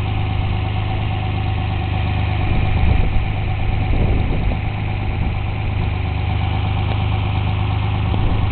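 1973 Datsun 240Z's L24 2.4-litre straight-six idling steadily, swelling slightly for a couple of seconds near the middle.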